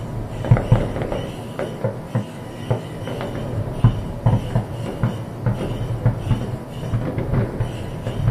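Aerial fireworks going off in a rapid barrage: many low booms from shell bursts overlapping with sharp cracks, several a second without a break.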